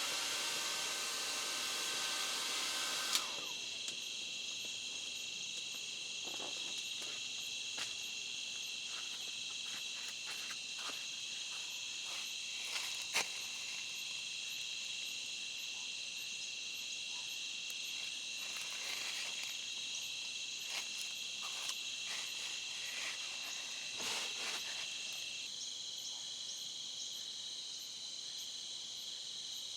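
A steady, high-pitched chorus of insects chirring. A louder hiss over it stops abruptly with a click about three seconds in, and a few faint clicks follow.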